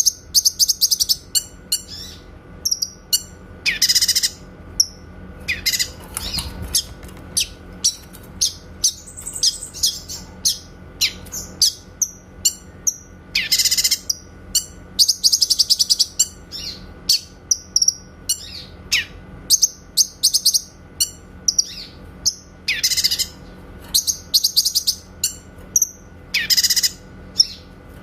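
Cucak kinoy singing continuously: short, sharp chirps and falling whistled notes, mixed with bursts of rapid, clear trills (the 'tembakan' shots of its song), coming in quick irregular succession.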